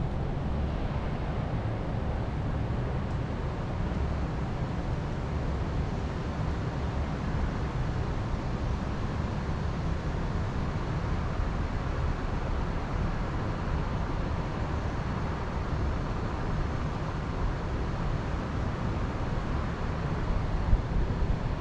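Steady wind, with a low rumble of wind buffeting the microphone.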